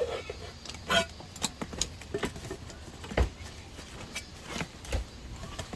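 Irregular clicks, light knocks and rattles of things being handled, with two dull thumps, about three and five seconds in.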